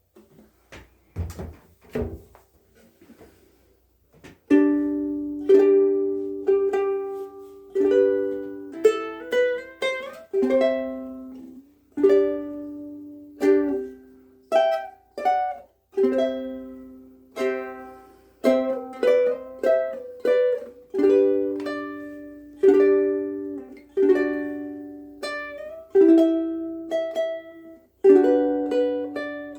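KoAloha ukulele played fingerstyle: plucked melody notes and chords, each ringing and fading. A few knocks and stray notes come in the first few seconds before the playing starts in earnest.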